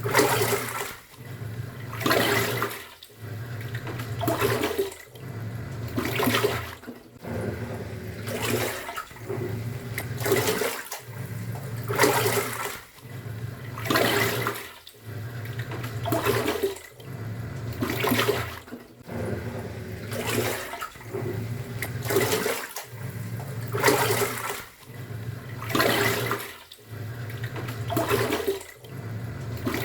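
Top-loading pulsator washing machine agitating a wash load: the motor hum and a surge of churning, sloshing water repeat about every two seconds as the pulsator swings back and forth, with short dips between strokes.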